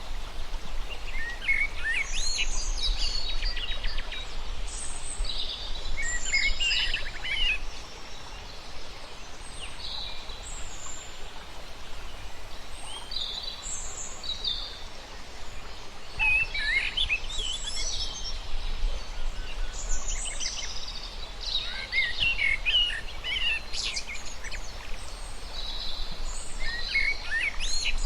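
Several birds singing and calling in overlapping short phrases, quick trills and sweeping chirps, with a steady low rumble underneath.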